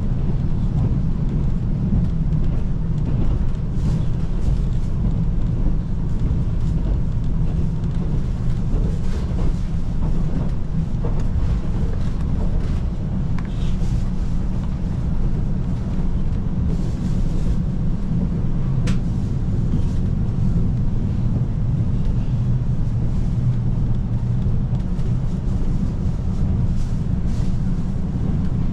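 Steady running noise of a KiHa 185 series diesel train: a low rumble of engine and wheels on rail, with a few faint clicks.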